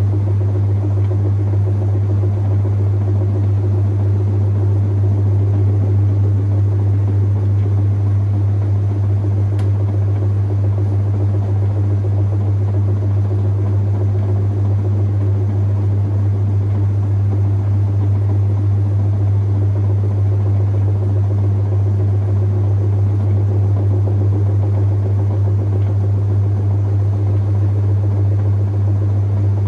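Whirlpool 3RLSQ8033SWD top-loading washing machine running through its delicate cycle, a steady low hum with no breaks.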